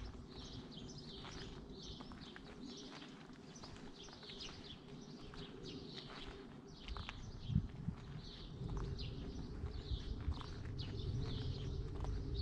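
Small birds chirping and singing over a faint steady hum. From about seven seconds in, a louder low rumble with a few knocks joins them.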